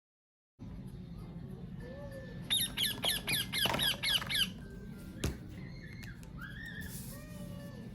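A parrot squawking in a quick run of harsh, repeated calls, about four a second, for about two seconds, over a steady low background hum. A single sharp knock follows.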